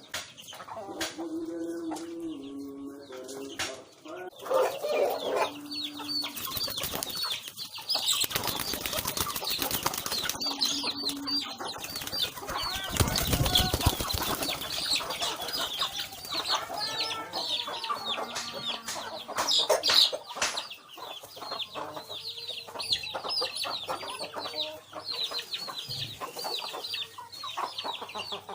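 White fantail pigeons cooing, then a long burst of wing flapping that is the loudest part. After that come many quick, high-pitched chirps from birds.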